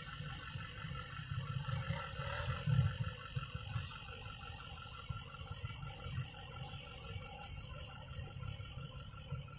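Faint dirt bike engine running steadily, over an uneven low rumble.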